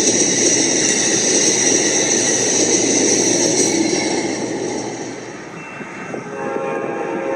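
An Amtrak train passing close by: a loud, even rush of wheels on rail with a steady high-pitched squeal over it. It eases off after about four seconds. Near the end a new steady tone with several pitches starts.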